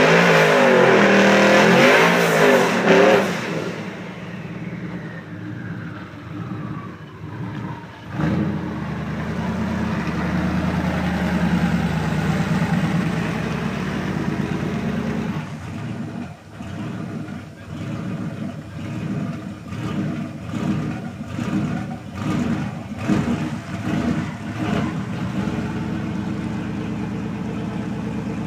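Built twin-turbo 2014 Ford F-150 drag truck engine at full throttle. It is loudest in the first three seconds, its pitch climbing and dropping through the shifts, then it fades with a falling pitch. Later a lower, uneven engine sound rises and falls in short pulses.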